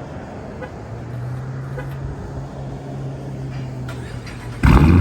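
A steady low hum, then about four and a half seconds in the exhaust of a Dodge Charger R/T's 5.7-litre Hemi V8, with its mid mufflers deleted, suddenly comes in loud and deep.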